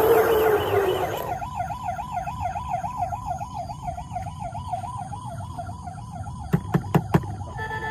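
Toy vehicle's electronic siren warbling fast and steady, with a swooping tone and hiss alongside it that stop about a second and a half in. Three sharp clicks come near the end, and a short electronic tune starts just as it closes.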